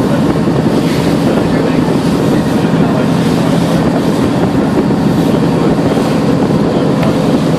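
Boat engine running steadily under way, with a constant low hum, and wind buffeting the microphone.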